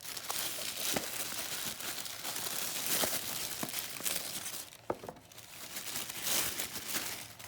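Packaging crinkling and rustling as it is handled and unwrapped by hand, with a few light clicks and taps.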